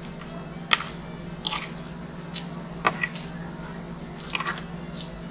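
Close-up chewing of pancit guisado noodles and pizza, with wet mouth clicks and smacks about once a second over a steady low hum.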